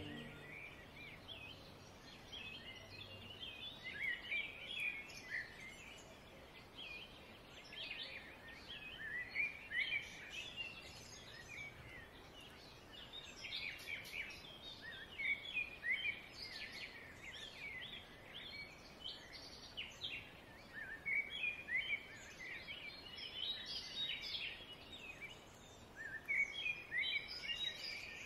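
Several small birds chirping and singing in a continuous chorus of short, high chirps that come in bouts, over a faint background hiss.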